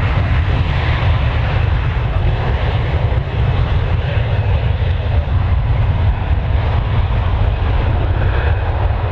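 Jet airliner's engines at takeoff power, a loud steady rumble.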